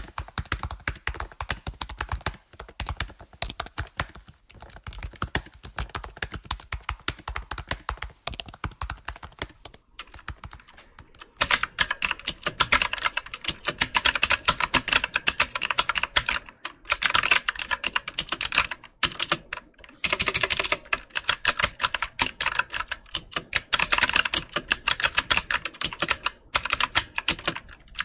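Computer keyboard typing: a fast, continuous stream of key clicks. About eleven seconds in there is a brief lull, after which the typing becomes louder and crisper.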